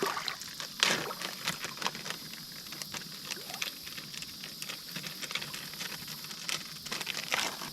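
Scattered light clicks and taps over the steady rush of creek water, the loudest about a second in and near the end.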